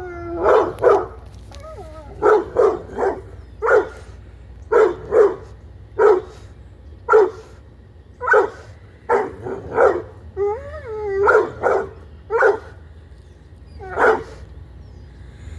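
Red-nose pit bull barking over and over in short, often paired barks. Twice it breaks into a wavering, whining call.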